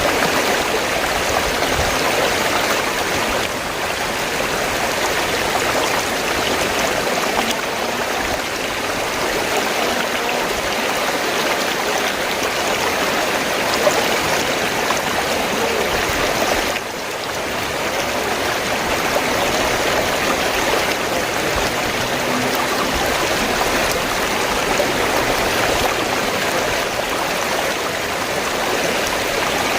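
River water flowing: a steady, continuous rush, with a brief dip in level a little over halfway through.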